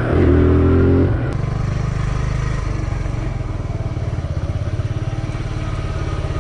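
Small single-cylinder motorcycle engine revving up for about a second, then dropping back as the throttle closes and running on steadily at lower revs with an even pulsing beat.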